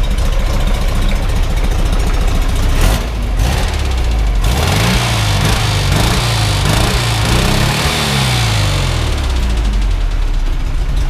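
Air-cooled VW 1641cc flat-four engine with dual carburettors, just started and running, revved up and down several times from about five seconds in, then settling back to idle.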